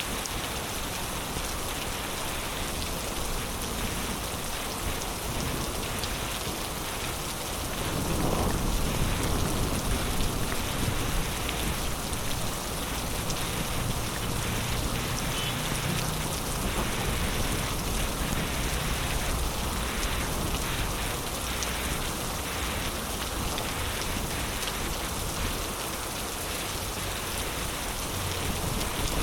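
Heavy rain pouring steadily. About eight seconds in, a roll of thunder rises and rumbles for a few seconds before fading back under the rain.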